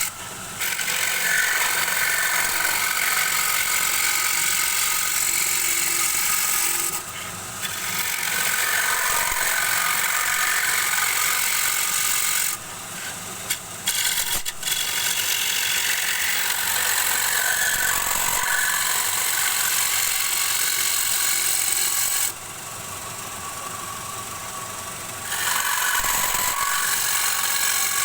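Turning tool cutting into a spinning wooden bowl blank on a wood lathe: a steady scraping hiss. It is broken by a few short pauses as the tool comes off the wood, the longest lasting about three seconds past two-thirds of the way through.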